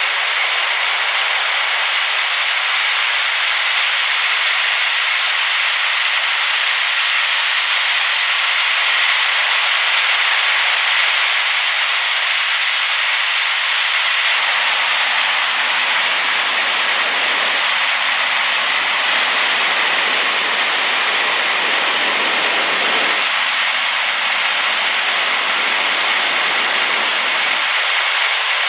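Waterfall in high flow after rain, a loud steady rush of water. A deeper rumble joins about halfway through and drops away shortly before the end.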